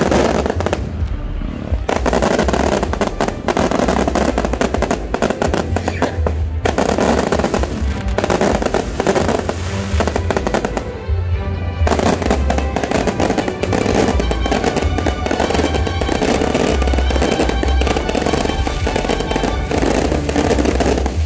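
Fireworks display: rapid volleys of exploding shells with crackle and low booms, broken by a few short lulls. Music plays along with them.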